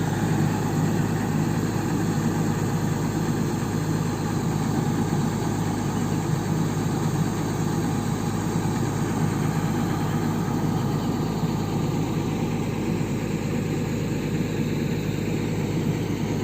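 Excavator's diesel engine running steadily at idle.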